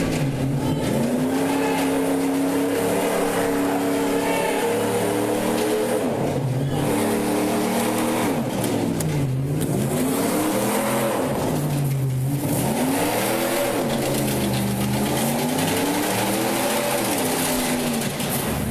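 Pickup truck engine revving hard and held high, its pitch dropping and climbing back several times. The sound is taken as the driver having passed out with his foot on the gas rather than revving on purpose.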